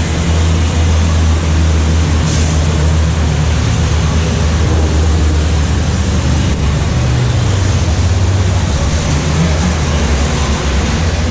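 Diesel racing trucks' engines running in a steady low drone, over a continuous hiss, with the pitch shifting a little partway through.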